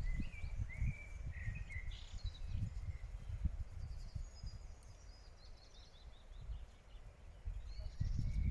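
Woodland birds singing: a few short whistled phrases in the first couple of seconds, then a quick run of high chirps in the middle. Footsteps and low thudding from walking on the path are heard at the start and again near the end.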